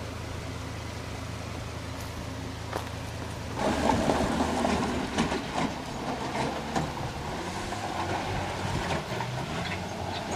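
Dodge V10 pickup truck engine running steadily, then about three and a half seconds in it grows louder and its pitch shifts as the truck is driven hard up a dirt hill, with scattered sharp ticks.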